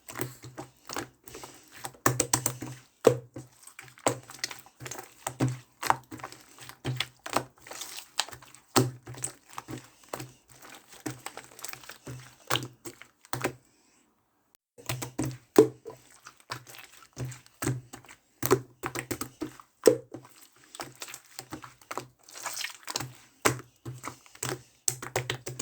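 Clear slime that still holds air bubbles being squeezed and pressed by hand, giving quick irregular pops and clicks as trapped bubbles burst. The popping stops for about a second just past halfway, then carries on.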